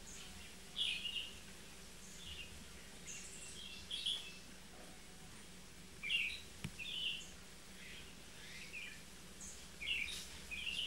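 Birds chirping: short, high chirps come in small clusters every second or two over a faint steady background.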